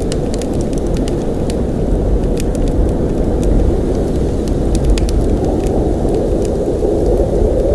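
Blizzard wind blowing hard and steadily as a dense, low rush, with scattered faint ticks over it.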